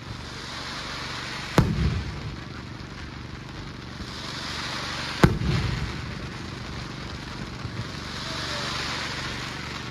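Fireworks display: two sharp bangs about three and a half seconds apart, each trailing off in a low rumbling echo, with a high hissing haze that swells twice between and after them.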